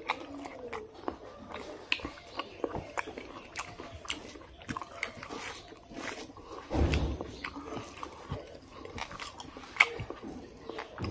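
Close-up eating sounds: a man chewing a mouthful of rice and pork curry, with many short sharp mouth clicks and smacks, while his fingers mix rice on a steel plate. A dull thump about seven seconds in is the loudest sound.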